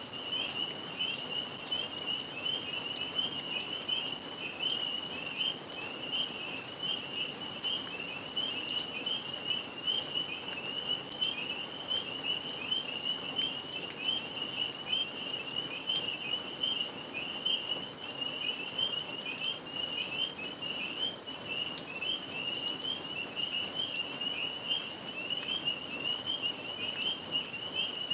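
A dense chorus of tree frogs calling continuously, a steady high-pitched trilling, over the soft hiss of falling rain.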